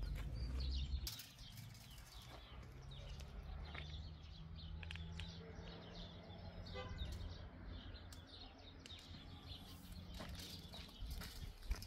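Small birds chirping now and then, with a short run of quick pulsed notes about seven seconds in, over a faint low rumble.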